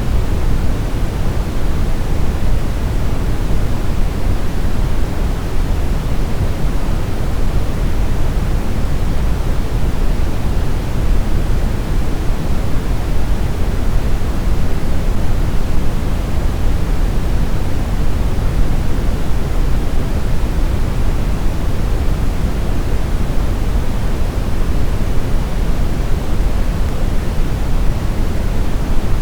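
Synthetic brown noise: a steady, deep rumbling hiss with most of its energy in the bass, unchanging throughout.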